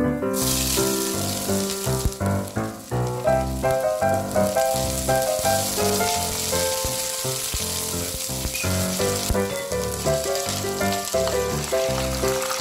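Sliced onion sizzling as it fries in hot rendered bacon fat, the sizzle starting just as the onion goes into the pot. Background music runs throughout.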